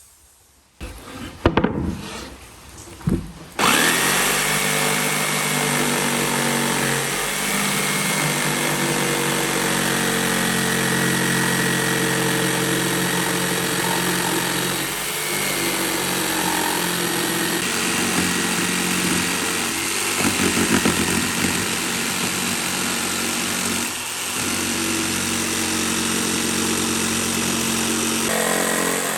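A few knocks, then a power tool starts about three and a half seconds in and runs steadily, its pitch shifting slightly now and then as the load changes.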